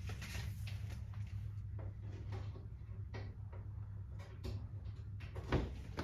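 Scattered light knocks and rustles of handling, with one louder knock about five and a half seconds in, over a steady low hum.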